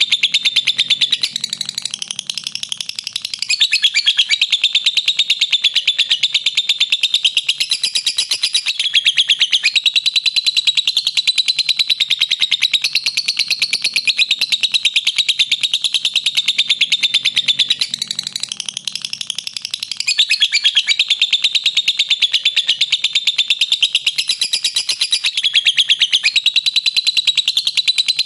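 Lovebird giving a long unbroken 'ngekek': a shrill, very rapid chattering trill held on without a pause. It turns briefly softer a couple of seconds in and again about two-thirds of the way through.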